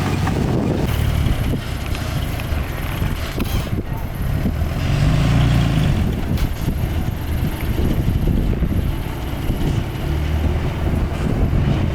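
Diesel engine of heavy earthmoving machinery running under load, with a brief rise in engine note about five seconds in.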